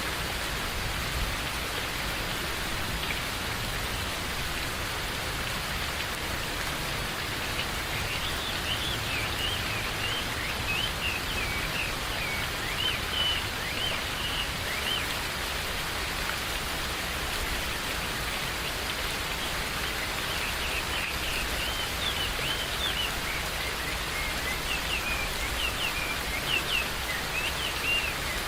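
Steady rain falling in a forest. A bird sings in quick runs of short chirps, starting about eight seconds in and again in the second half.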